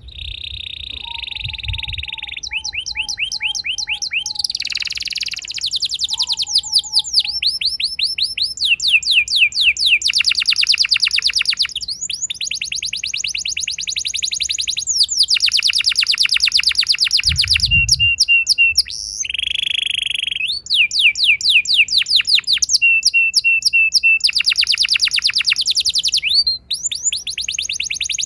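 Domestic canary singing long rolling trills: runs of rapidly repeated sweeping notes lasting a few seconds each, changing in tempo and pitch between runs, with short pauses. A softer, lower series of chirps runs under the song in the first few seconds.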